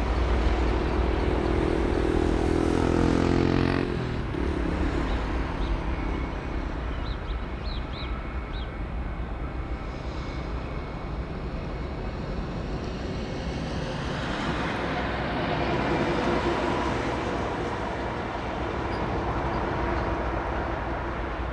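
Jet airliner passing by: a loud engine roar whose tone falls during the first four seconds as the aircraft goes past, then a steady jet rumble that swells again a little past the middle.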